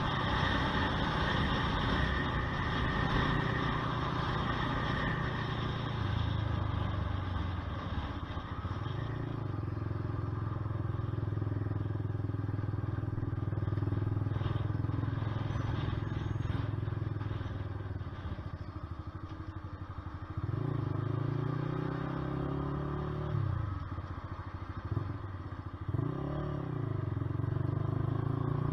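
Honda CBR125R's single-cylinder four-stroke engine running under way, with wind rush over the action camera for the first few seconds. From about two-thirds of the way in, the engine note drops and climbs again several times as the throttle is closed and reopened.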